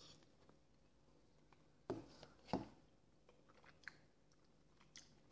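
Faint close-up chewing of soft boiled potato varenyky with sour cream, with two brief louder sounds about two seconds in.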